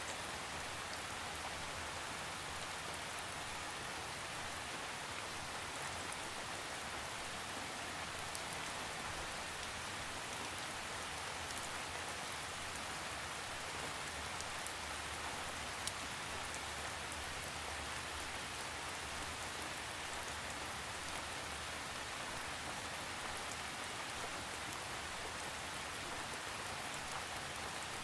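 Steady rain falling, an even hiss of drops with the odd sharper drop tick, and no thunder.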